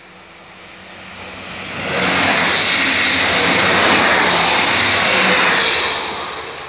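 Passenger train passing close by at speed: a rush of wheel and rail noise swells over about two seconds, stays loud for about four seconds, then fades as the train goes away.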